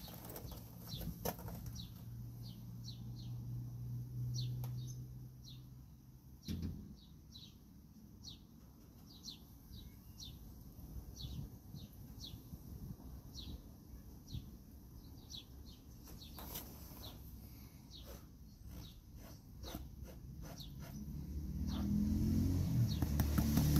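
A small bird chirping over and over in short, quickly falling notes, with water swishing faintly in a plastic gold pan. A louder low rumble builds near the end.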